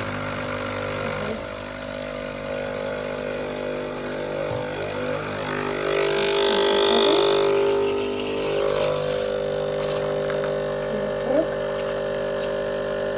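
Sage Barista Express espresso machine running with a steady mechanical hum, swelling somewhat louder for a few seconds midway.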